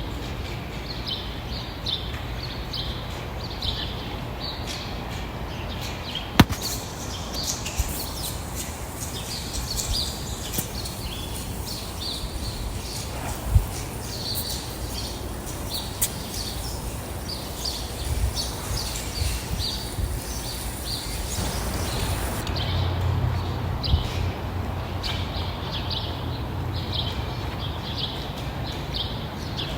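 Birds chirping, many short high calls repeated throughout, over a steady low rumble, with a couple of sharp clicks.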